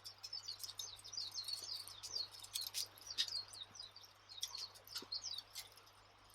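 Wood fire crackling and popping in a rapid, irregular run of sharp clicks, with small birds chirping high over it.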